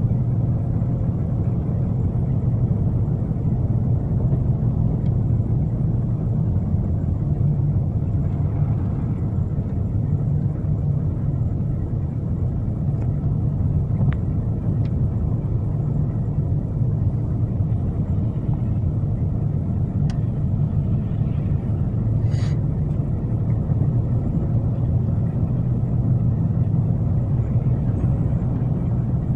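Steady rumble of a car's engine and tyres heard from inside the cabin while driving on a snowy road, with a few faint clicks.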